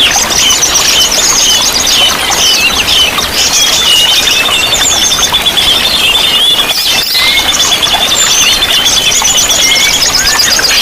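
Several songbirds singing together over the steady rush of running water, with a long, even, high trill running through most of the middle of the stretch and quick chirps and whistles around it.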